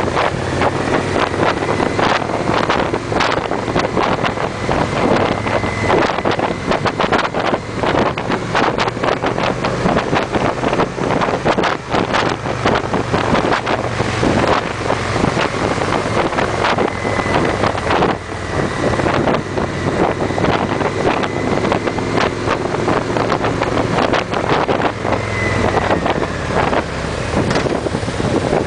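Victory V-twin cruiser motorcycles running steadily at cruising speed in a group, with heavy wind buffeting on the microphone.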